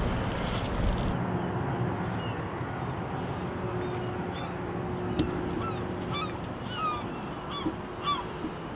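Birds calling: many short, dipping calls repeated at irregular intervals, more frequent in the second half, over steady background noise and a faint steady hum.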